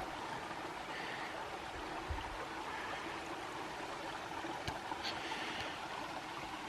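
Small woodland creek running steadily, with a few faint knocks.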